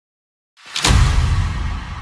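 A DJ intro sound effect: about half a second in, a sudden heavy bass boom with a bright swoosh on top, fading into a low rumble.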